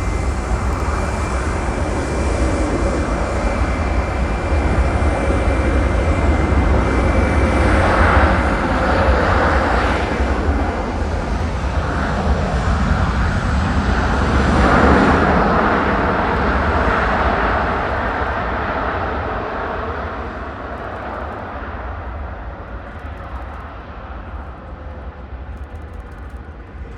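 Jet airliner's engines passing close by: a loud rush with a thin steady whine, swelling to its loudest in the middle, then fading away over the last ten seconds.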